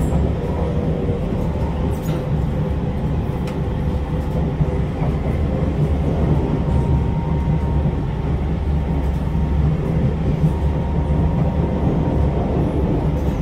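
Interior running noise of an SMRT C651 train carriage under way: a steady, loud low rumble of wheels and running gear on the track, heard from inside the car.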